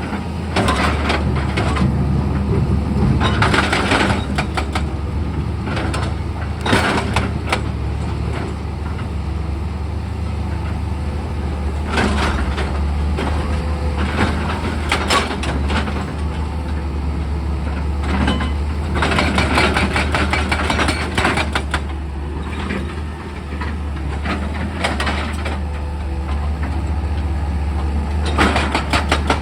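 Heavy diesel engine of an excavator running steadily, with repeated bursts of scraping, crunching noise every few seconds as it works.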